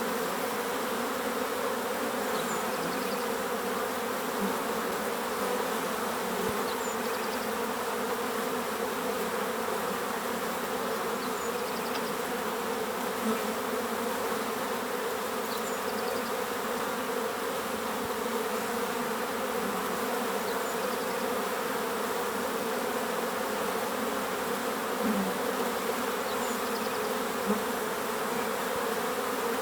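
Many bees buzzing together in a steady, dense hum.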